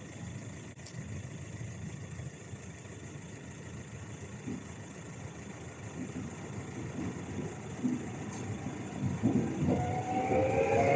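A train approaching, its low rumble growing steadily louder. A whine of several steady tones, rising slightly in pitch, comes in over the last second or two.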